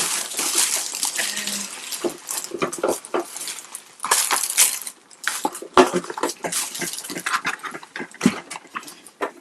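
Packaging rustling and crinkling as the coffee machine is taken out of its box, with a dense rustle in the first couple of seconds, then scattered knocks and taps.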